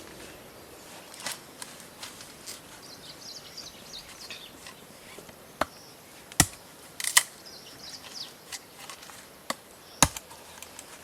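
Sharp knocks of wood being chopped or struck, a handful at uneven intervals, the loudest about six and a half and ten seconds in, over faint high chirping of birds.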